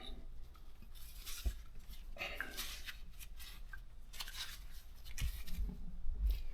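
A new throttle body assembly being handled and set in place by hand: scraping, rustling and light clinks of the part, with a few dull thumps, the loudest near the end.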